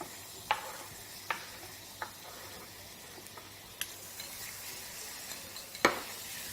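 Onions, garlic and tomatoes sizzling in oil in a saucepan while a spoon stirs, knocking against the pan a few times, the loudest knock near the end. The sizzle grows a little louder in the second half.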